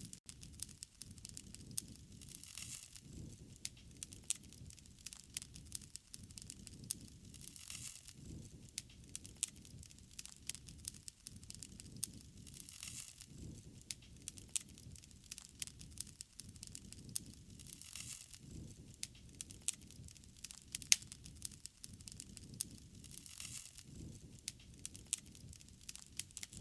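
Wood fire crackling, with frequent sharp pops and snaps and a soft rushing of flames that swells and fades about every five seconds.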